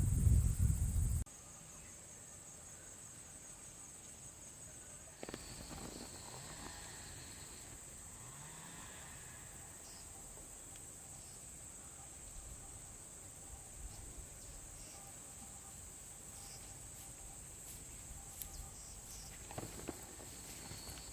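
Insects chirring in a steady high-pitched drone. A loud low rumbling noise cuts off abruptly about a second in, and a few faint clicks follow.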